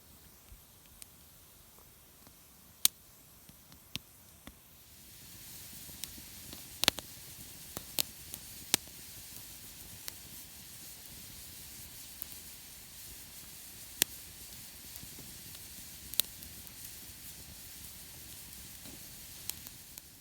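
Campfire wood crackling, with sharp scattered pops. About five seconds in a steady high hiss comes in and holds.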